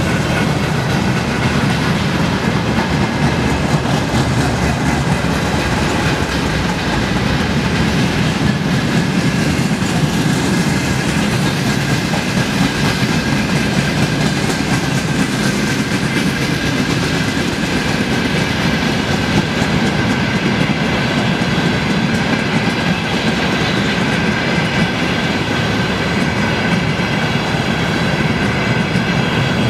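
Long freight train of boxcars and container flatcars rolling past: a steady wheel-on-rail noise with a thin steady high tone over it.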